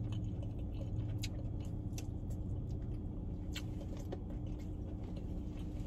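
Quiet eating sounds: chewing with a few scattered small clicks and smacks as fried chicken is eaten by hand, over a steady low hum inside a car.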